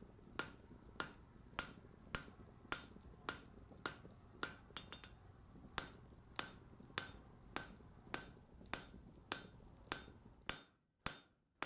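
Steady, evenly paced hammer blows, a blacksmith's hammer striking at just under two blows a second. A low background hum under the blows stops near the end, while the blows continue.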